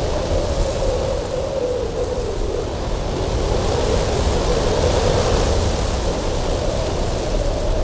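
Cold winter wind blowing steadily over a mountain pass, with a deep rumble and a wavering whistle that drifts up and down in pitch; the gusts swell a little around the middle.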